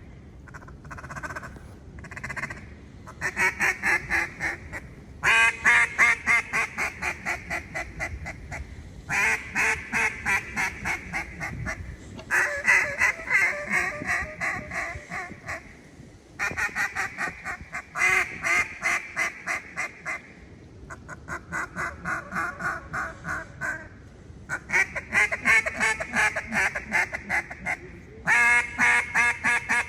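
UGC Mud Hen duck call blown in flooded-timber style: runs of rapid quacks, several notes a second, each run lasting a few seconds with short breaks between.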